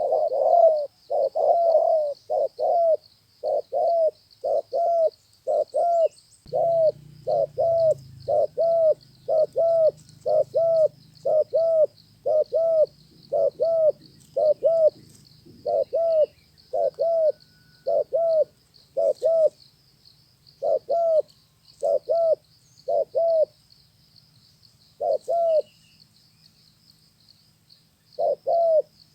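Spotted dove cooing in a rapid series of short, repeated notes, about two a second, with a pause of a few seconds near the end before it starts again.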